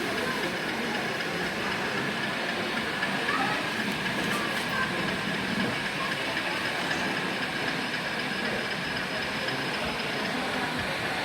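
Model train running on an exhibition layout with a thin, steady whine, over the constant hubbub of a busy exhibition hall.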